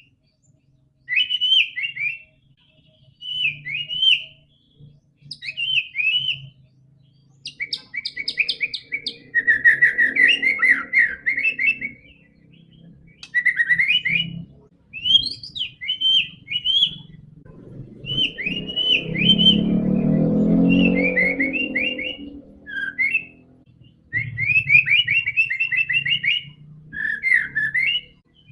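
White-rumped shama (murai batu) singing in repeated bursts of fast, rising-and-falling whistled phrases, with gaps of about a second between them. A low rumble runs under the song for a few seconds past the middle.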